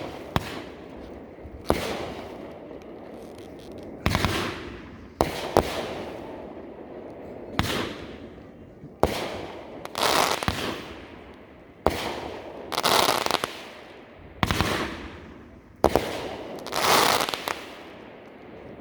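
Aerial firework shells bursting: about a dozen loud bangs one to two seconds apart, some in quick pairs, each trailing off over a second or so.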